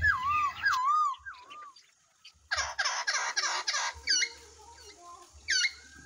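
Birds whistling and calling. A swooping whistle repeats three times, then a short burst of rapid coarse calls comes about midway, followed by short, sharp, falling chirps.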